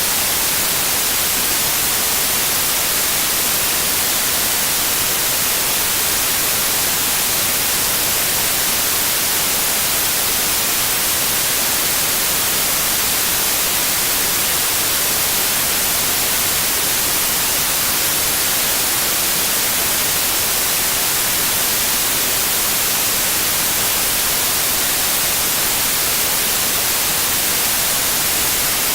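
Steady, unchanging white noise: an even hiss, brightest in the treble.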